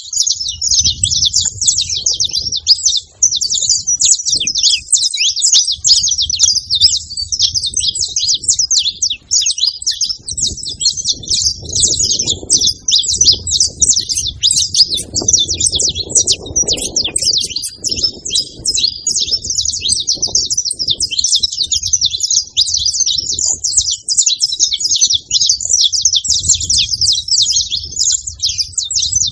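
Saffron finch song: a dense, unbroken run of rapid, high chirps and trills.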